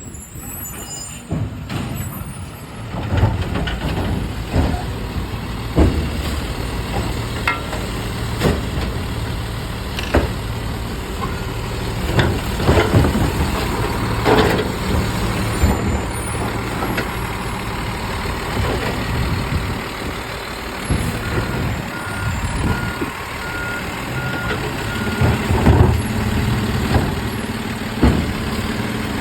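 Garbage truck working at collection: its diesel engine running steadily under repeated metallic clanks and bangs, with a short run of reversing-alarm beeps a little past the middle.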